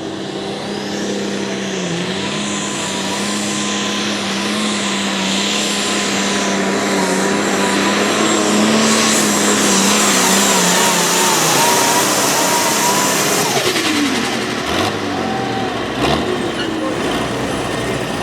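A competition pulling vehicle's engine running at high, steady revs under load down the track, getting louder. About 13 seconds in, the revs fall sharply as the throttle comes off, and a couple of knocks follow.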